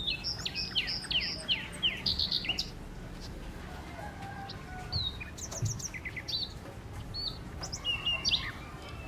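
Several small birds chirping and singing, with a fast run of short down-slurred notes in the first few seconds and scattered calls after, over a low steady background rumble.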